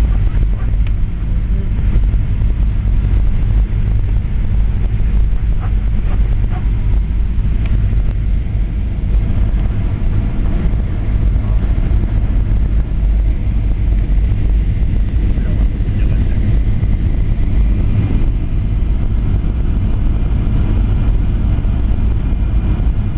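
Steady cabin noise of a Boeing 737-800 on its landing approach: a loud low rumble of airflow and CFM56 turbofan engines, with a faint high engine whine over it.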